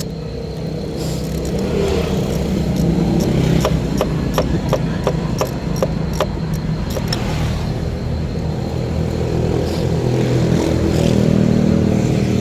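Car engine running with a steady low hum, its speed and loudness rising about two seconds in and again near the end, with a run of quick sharp clicks in the middle.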